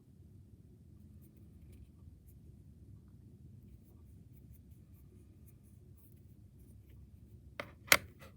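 Faint scratching and rubbing handling noise over a low steady hum, then two sharp clicks near the end, the second much louder.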